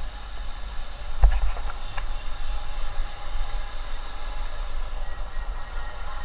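Road and wind noise from a motorcycle running along a highway: a steady low rumble with a hiss above it. There is a sharp knock a little over a second in and a lighter one shortly after.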